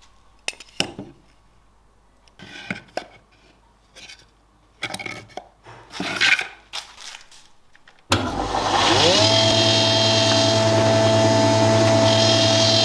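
A few light knocks and scrapes, then an electric power tool switches on about eight seconds in. Its motor whines up in pitch over about a second and runs steadily.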